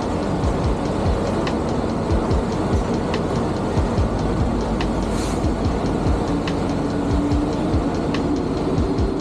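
Steady low rumble of a semi truck's diesel engine and running noise, with faint sharp ticks every second or two and a brief hiss about five seconds in.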